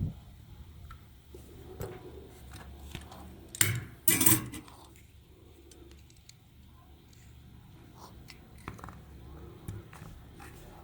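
Scattered small clicks, taps and scrapes of hand-work on a small toy and tools, with two louder noisy bursts close together about three and a half and four seconds in.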